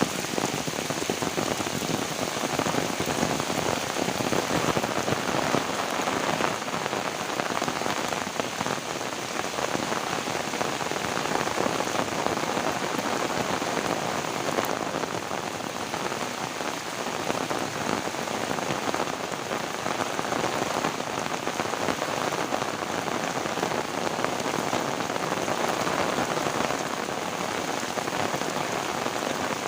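Heavy rain falling steadily, a dense pattering of drops on surfaces that swells and eases slightly.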